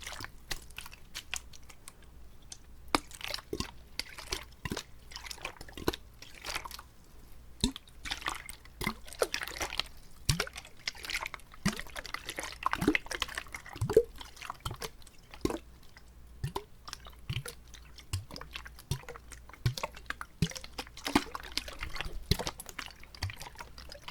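Close-miked ASMR mouth sounds made with water: a dense, irregular run of wet clicks, small pops and swishing inside the mouth.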